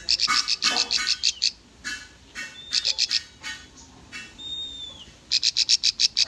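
Ciblek (bar-winged prinia) singing a lure song: three bursts of rapid, high chattering trills, with a single short clear whistle between the second and third bursts.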